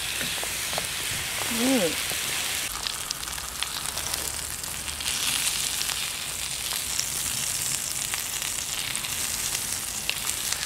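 Pork intestines (makchang) sizzling and crackling steadily in a frying pan as their fat starts to render out. About two seconds in there is a brief hum from a person's voice.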